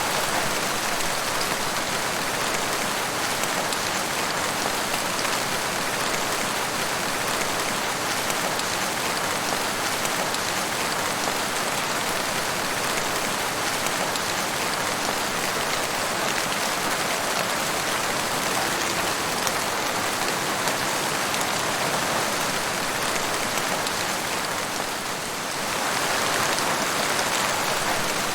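Steady rain falling in a forest, a dense even patter of raindrops that eases briefly near the end.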